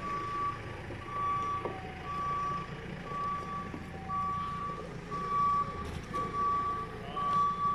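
Vehicle reversing alarm beeping about once a second, a single steady tone, over a machine's engine running.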